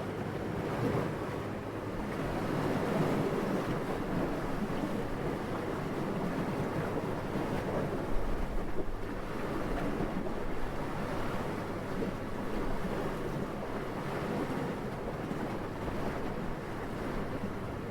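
Steady wind blowing, swelling and easing slowly, with a brief low buffet about eight seconds in.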